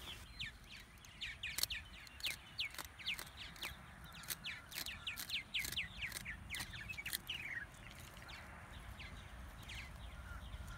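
Birds calling: a quick run of short, downward-sliding chirps, several a second, that thins out after about seven seconds.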